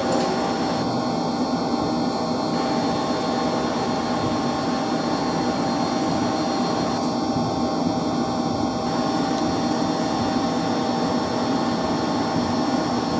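Steady drone of running machinery: a constant rushing noise with several fixed whining tones over it, from electric circulation pumps running in a heating plant room.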